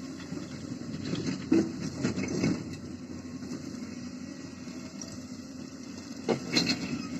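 Excavator diesel engines running steadily, with two spells of louder rattling and scraping, about a second and a half in and again near the end, as earth is worked.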